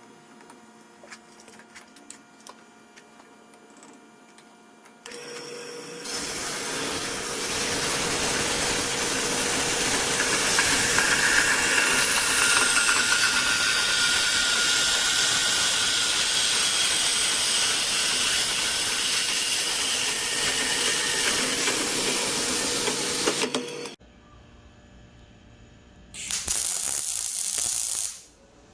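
Metalworking power tool working on the steel exhaust pipe: a loud, steady hiss that starts about five seconds in, runs for about eighteen seconds and cuts off abruptly, then a second short burst near the end.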